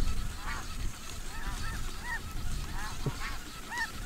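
Snow geese calling, many short high honks overlapping, several a second, with a low rumble underneath.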